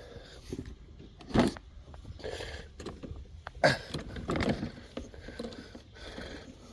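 Handling noise: irregular rattling and scraping with two sharp knocks, about a second and a half in and again a little over three and a half seconds in.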